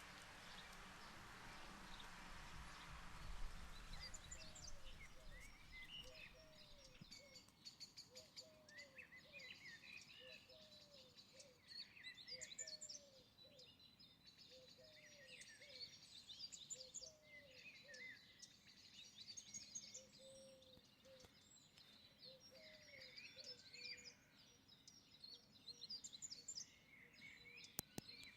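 Faint outdoor birdsong: several birds chirping and trilling, with a lower short call repeating about once a second. A soft hiss fades out over the first few seconds.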